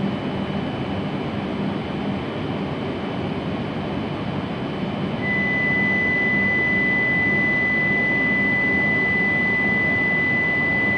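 Stationary Hayabusa Shinkansen train at the platform, a steady hum and rush from its onboard equipment. About halfway through the sound gets a little louder and a steady high tone starts and holds.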